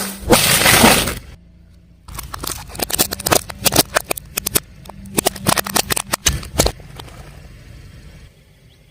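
Car tyre rolling over and crushing brittle objects. A loud crunching scrape fills about the first second. After a short pause comes a run of sharp cracks and snaps for several seconds, thinning out near the end.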